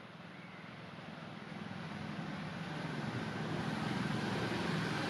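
A motor vehicle's engine drawing steadily nearer, growing louder throughout.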